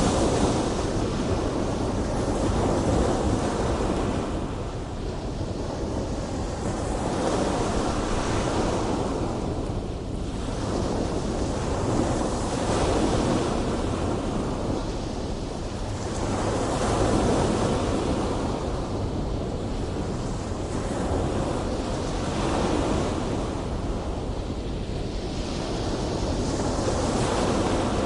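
Big ocean waves breaking in surf, the noise swelling and falling away every four to five seconds, with a rumble of wind on the microphone underneath.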